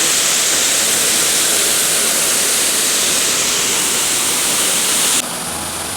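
Waterfall: a loud, steady rush of falling water. About five seconds in it cuts off suddenly, giving way to a quieter low, steady hum.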